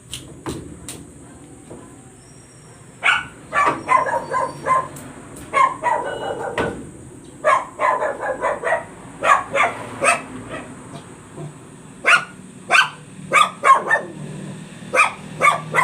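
A dog barking over and over in quick runs of short barks, starting about three seconds in.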